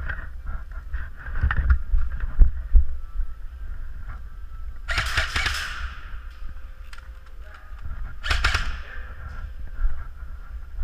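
Two bursts of airsoft gunfire, each about a second long, the first about five seconds in and the second about eight seconds in, over a steady low rumble and scattered knocks of wind and handling on the microphone.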